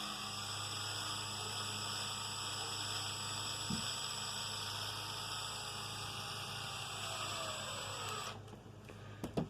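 Power drill running steadily, driving an 8-32 screw down into a nut held with pliers on a caster wheel. Its whine sags in pitch as the screw tightens down too tight, then it stops, and a click follows near the end.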